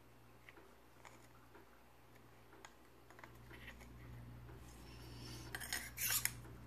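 Metal parts of a lightsaber hilt being handled: light clicks and taps, then a louder spell of metal scraping and clinking near the end, like the threaded top section being worked on or off.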